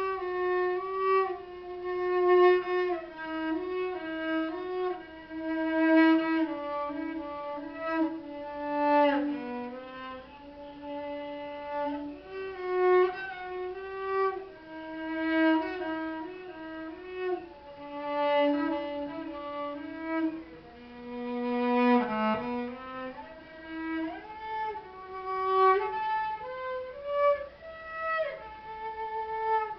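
Solo cello playing a slow bowed melody, with slides between some notes and phrases that swell and fade.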